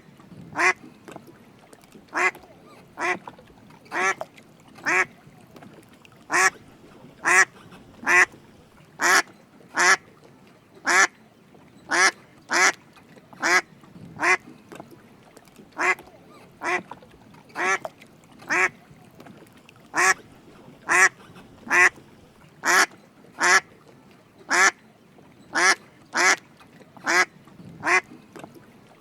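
Drake mallard quacking: short single quacks repeated evenly, about one a second.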